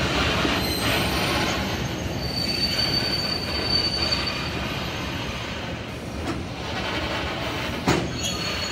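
Railcar rolling slowly on the track: a steady rumble of wheels on rail, with a thin high wheel squeal for about two seconds early in the middle and a single sharp knock near the end.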